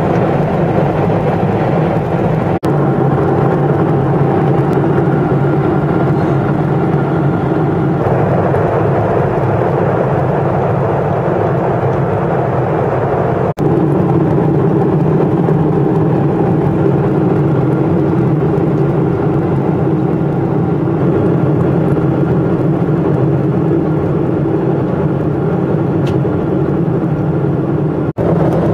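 Steady drone of jet engines and airflow heard inside an airliner's cabin in flight. It breaks off for an instant three times: about 3, 14 and 28 seconds in.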